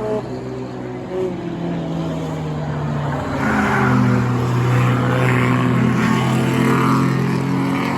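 Engines of street cars in an any-car enduro race running on the track, a steady engine drone that grows louder about three seconds in.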